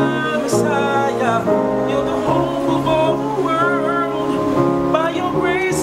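Men's vocal ensemble singing in close harmony, with held, wavering notes over layered chords.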